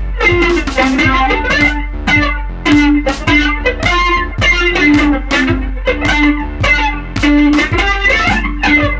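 Electric guitar (Epiphone Les Paul) played through compressor, flanger and delay pedals into a Vox AC4TV valve amp: a quick, rhythmic run of picked notes with echo repeats, over a steady low hum.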